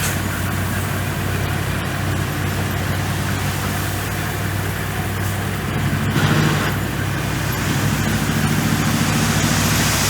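Komatsu bulldozer's diesel engine running steadily with a low drone, with a brief louder burst of noise about six seconds in.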